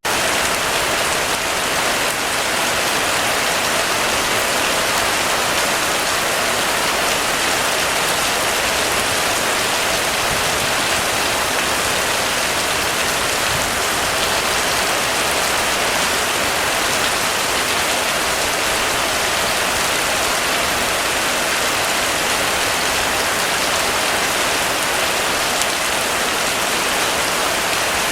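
Heavy rain falling steadily, an even hiss of many drops on a surface with no break or change.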